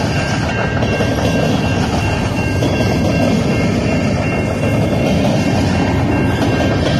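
Freight train cars rolling slowly past on the rails, a loud, steady rumble with a few steady high tones above it.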